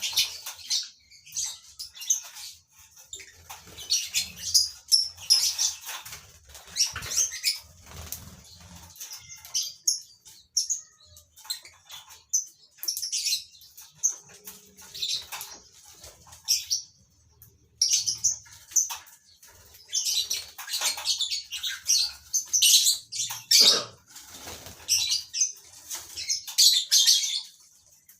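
Colony of lovebirds chattering in irregular bursts of shrill, high chirps, with wings flapping.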